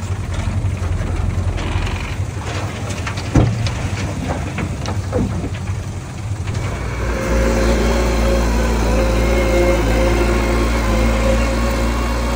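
Small bulldozer's engine running, with scattered knocks and one sharp knock about three seconds in. About seven seconds in the engine gets louder and steadier, as if under more power.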